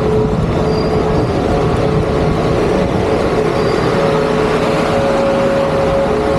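An engine running steadily with a constant hum, under a dense rumbling noise.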